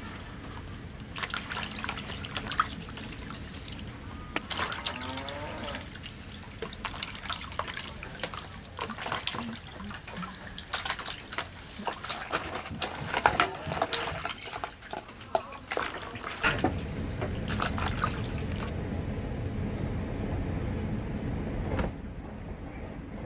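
Dishes washed by hand in a plastic basin of water: water splashing and sloshing, with stainless steel bowls clinking against each other. About two-thirds of the way through, this gives way to a steady low rush of wind.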